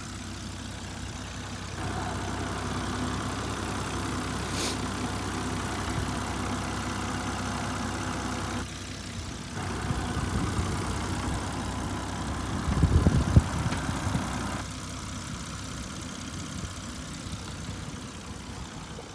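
2003 Volvo XC90 engine idling steadily and smoothly, sounding healthy. Its level shifts a few times, and a short burst of louder low rumbling comes about two-thirds of the way through.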